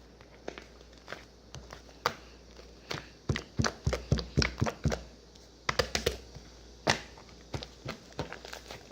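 Irregular taps and knocks, coming thickest in a quick cluster a few seconds in and again a little later.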